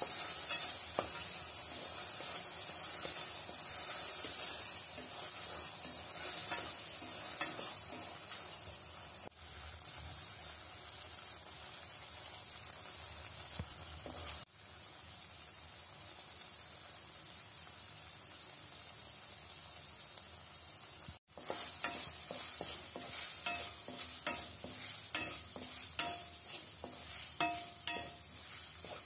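Chopped onions, tomatoes and dried red chillies sizzling in hot oil in a pan, with a spatula stirring and scraping through them. The sizzle is a steady hiss, and the spatula strokes come thick and fast in the last third.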